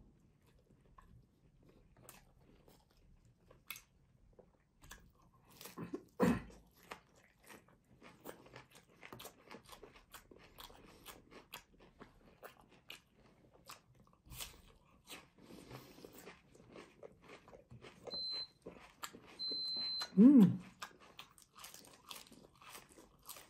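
Close-miked eating: crunching and chewing raw onion and fresh greens, with many small wet mouth clicks. Near the end a high steady tone sounds twice, followed by a short falling low voice-like sound, the loudest moment.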